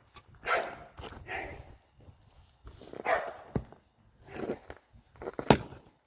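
Dogs fighting: several short barks and snarls in a scuffle, with two sharp knocks, the second louder, in the second half.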